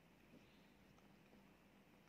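Near silence: faint, soft mouth clicks from chewing a bite of chocolate-dipped ice cream cone, over a low steady hum of room tone.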